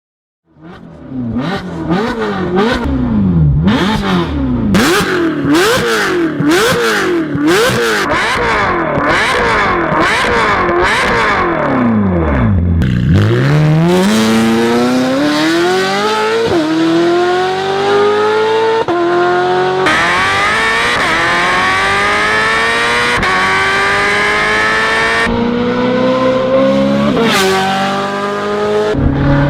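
Ferrari California V8 with an Armytrix cat-back valvetronic exhaust. It is revved in a string of quick blips, then accelerates hard through the gears: the pitch climbs in long sweeps and drops sharply at each of several upshifts.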